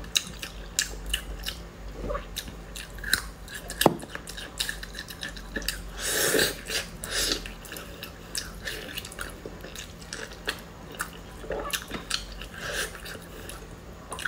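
Close-miked chewing of fatty braised meat on the bone, with many small irregular mouth clicks and smacks.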